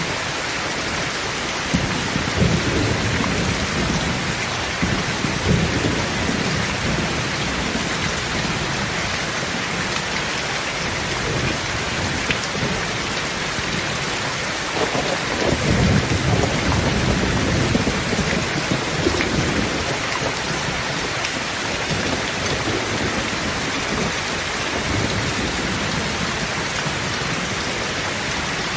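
Thunderstorm: steady heavy rain with rolling thunder rumbles, one a few seconds in and a louder, longer one about halfway through.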